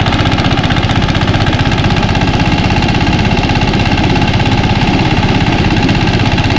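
Mini rice thresher running steadily on its small engine, a loud, even, fast-pulsing machine sound.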